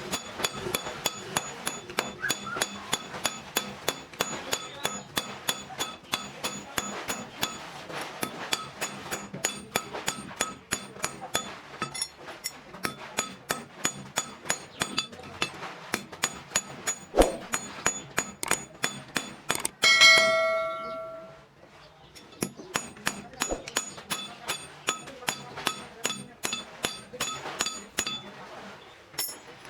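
A hammer striking metal in quick, steady blows, about three a second, each with a short metallic ring, as scrap metal is beaten into a tyre lever. About twenty seconds in one heavier blow rings out for over a second, the hammering pauses briefly, then resumes.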